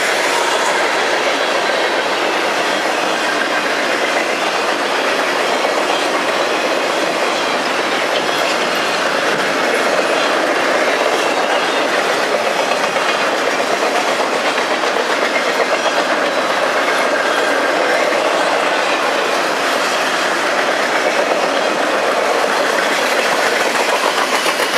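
A freight train's cars rolling past on the rails, a steady sound with no pause.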